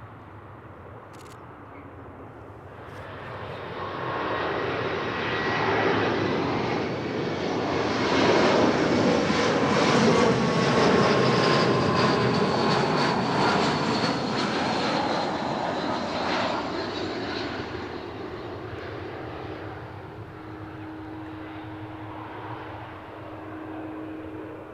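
Jet airliner passing close by: the engine noise builds, peaks about ten seconds in, then fades, with a high engine whine that slides slightly down in pitch as it goes by. A steady low hum comes in near the end.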